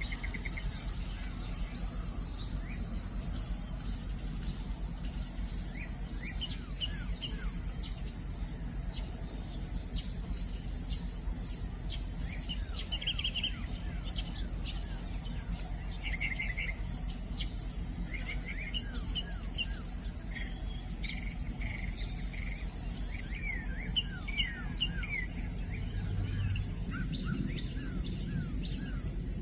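A steady, high insect chorus of crickets or katydids that pauses briefly every few seconds, with scattered short bird chirps and calls over it, above a low steady rumble.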